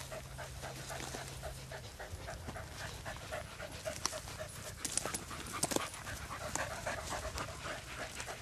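Hunting dog panting hard and steadily, about three breaths a second, with a few sharp clicks partway through.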